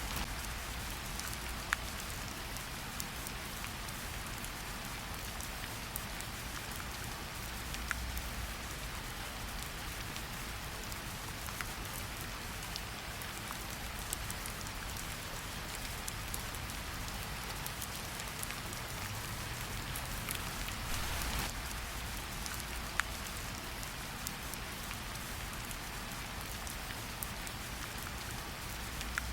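Steady forest rain falling: an even hiss with scattered sharper drop taps, and a brief swell in the downpour about two-thirds of the way through.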